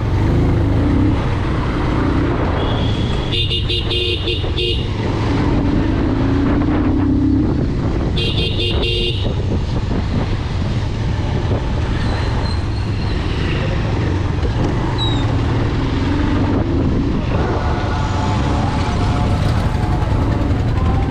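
Bajaj Pulsar 220 motorcycle's single-cylinder engine running steadily while riding in town traffic. A vehicle horn sounds twice, about three and eight seconds in, each blast lasting about a second.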